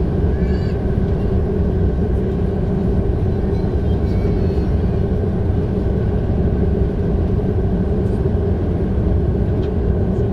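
Steady cabin noise inside an Airbus A330-300 airliner: a constant deep roar of engines and airflow with a steady hum laid over it.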